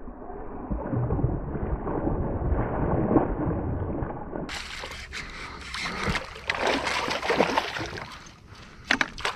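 Water splashing and sloshing as a hooked largemouth bass thrashes beside a kayak while being brought in. It is muffled at first, then becomes a run of sharp, irregular splashes from about four and a half seconds in.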